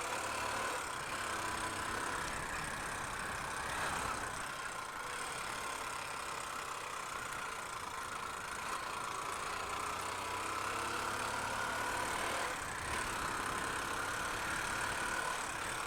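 Honda Unicorn motorcycle's single-cylinder engine running steadily, its note drifting slowly up and down, with wind and road noise.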